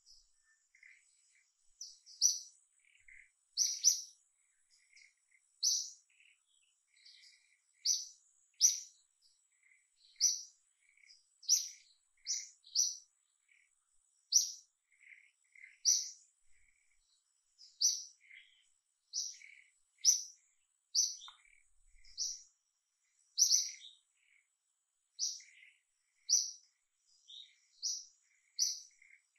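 A small bird chirping over and over: short, sharp, high-pitched chirps about once a second, some in quick pairs, with fainter lower chirps between them and a thin steady high tone underneath.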